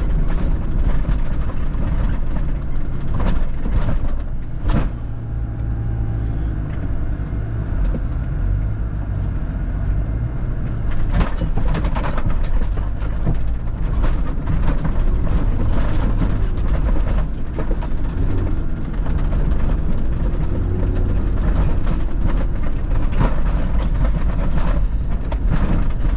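4x4 vehicle driving off-road: the engine runs with a steady low rumble whose pitch rises and falls a little, mixed with frequent knocks and rattles from the rough track.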